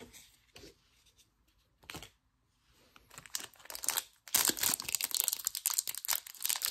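A plastic trading-card pack wrapper being torn open and crinkled in the hands. After a few quiet seconds with light handling clicks, the loud crackling tearing starts about four seconds in.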